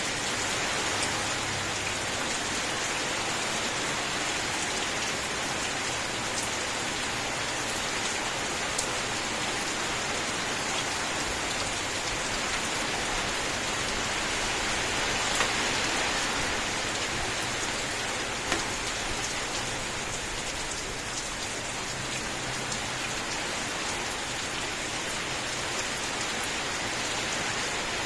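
Steady rain: a dense, even hiss of falling rain with scattered sharper drop ticks.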